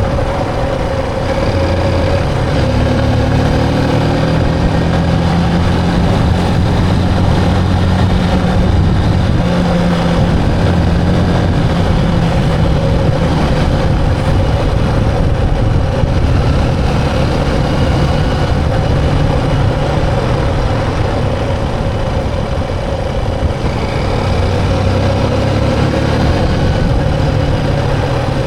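Motorcycle engine running while riding, its pitch rising now and then as the throttle opens.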